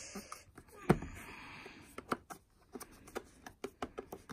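Cardboard packaging being handled as a small box is pulled out of a larger one: scattered light taps, clicks and rubbing, with one sharper tap about a second in.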